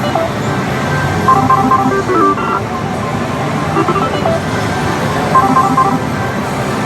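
Din of a pachislot hall: a dense, steady roar of many machines, with short electronic beeping tunes from the slot machines coming back every couple of seconds.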